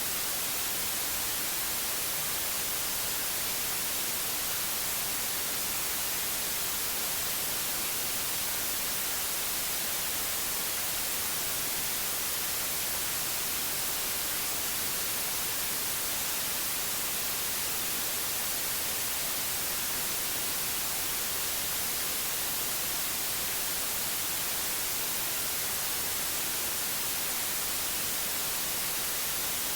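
Steady white noise: an even, unchanging hiss strongest in the high end.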